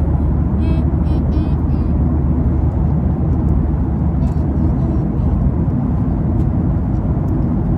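Steady low rumble of an airliner cabin in flight, the engines and airflow running evenly throughout, with faint voices in the first couple of seconds.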